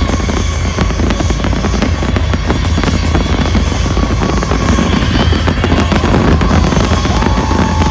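A fireworks finale: a rapid run of sharp bangs and crackles over loud electronic dance music with a heavy, steady bass.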